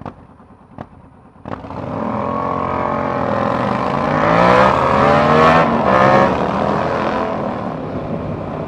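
Motorcycle engine accelerating hard, its pitch climbing and growing louder, with rushing wind noise at its loudest about four to six seconds in. A few sharp clicks come before it in the first second and a half.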